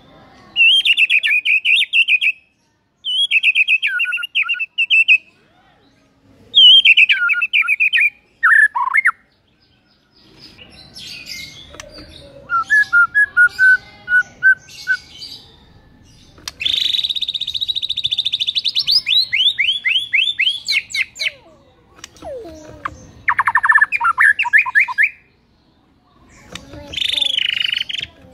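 White-rumped shama (murai batu) singing: loud phrases of fast trills and rapid repeated notes, broken by short pauses, with one lower run of notes in the middle.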